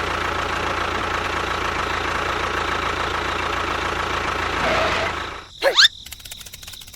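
Engine running steadily with a low rumble, cutting off about five seconds in. A short sweep up and down in pitch follows, then a fast, even clicking.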